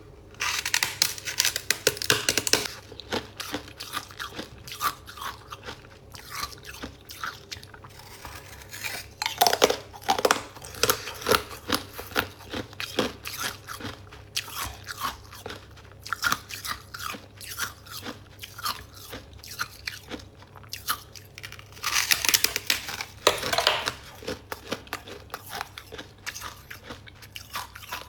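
Close-up crunching and chewing of freezer frost, crisp crackling bites with louder bursts of biting about half a second in, around nine seconds in and around twenty-two seconds in, and steady crunchy chewing between.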